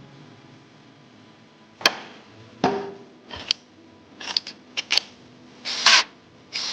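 Hand tools working on an engine being reassembled: a sharp click, a knock, a quick run of clicks, then short rasping bursts near the end.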